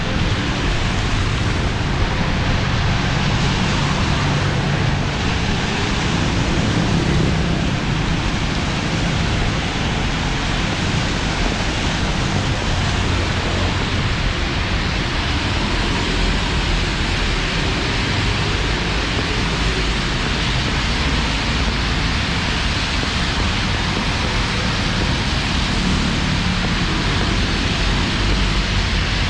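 Heavy monsoon rain falling hard and steadily, with a low rumble underneath.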